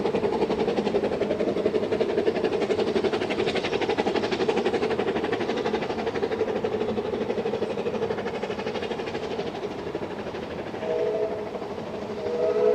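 Narrow-gauge steam locomotive working a train, its rapid exhaust beats slowly fading. Near the end its whistle sounds briefly twice.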